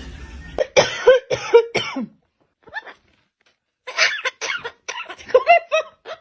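A series of short cough-like bursts in two bouts: one about a second in, and a second, longer bout from about four seconds in.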